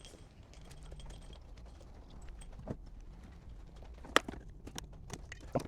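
Scattered light clicks and taps of hand tools pulling a plastic cap off a 10mm bolt and undoing the bolt, with a few sharper clicks in the last two seconds.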